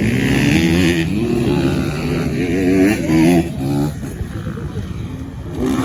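Motocross dirt bike engines revving up and down as the bikes race, the pitch repeatedly rising and falling with throttle changes.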